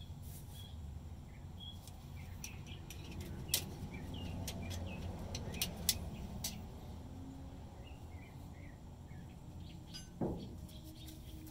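Small birds chirping over a low steady rumble, with scattered sharp clicks through the middle and a soft knock near the end.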